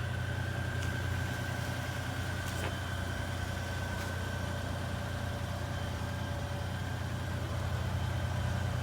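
A vehicle engine idling steadily: an even low hum with a faint steady whine above it.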